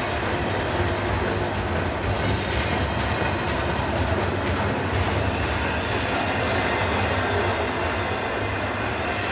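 Train rolling past at a steady pace, a continuous rumble of wheels and cars on the rails with faint clicks over the joints.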